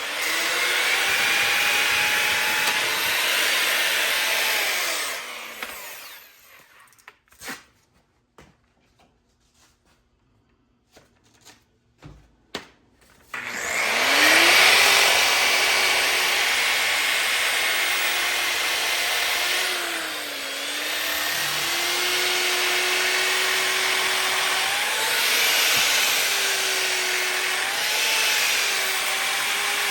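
Bauer variable-speed grinder with a sanding pad sanding a cast iron skillet down to bare metal: a steady grinding hiss over a motor whine that dips and rises as the pad is pressed and moved. It stops about six seconds in, a few light clicks and knocks follow, and the sanding starts again about thirteen seconds in.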